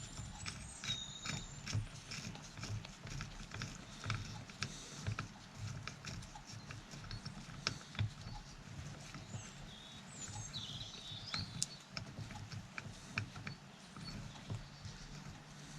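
Irregular light clicks and knocks of small metal parts and tools being handled and rummaged through on a workbench, over a low hum, with a few brief high chirps.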